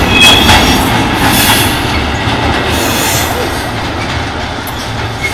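Freight train of tank wagons passing close by: the steady rolling rumble and clatter of wagon wheels on the rails, with a brief high wheel squeal about a quarter second in. The noise gradually gets quieter.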